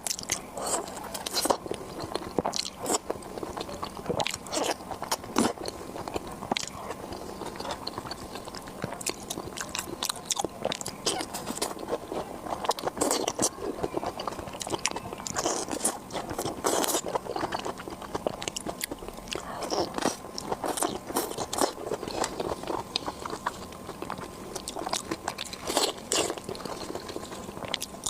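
Close-miked eating of a sashimi platter with salmon: biting and chewing, heard as many short, irregular wet clicks.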